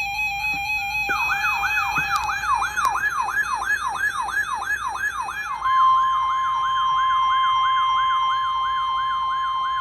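Electronic weather-alert siren: rapid falling sweeps repeating about three and a half times a second, starting about a second in after a steady lower tone. About halfway through, the steady 1050 Hz NOAA Weather Radio warning alarm tone joins the sweeps and holds. It signals that a warning broadcast is about to follow.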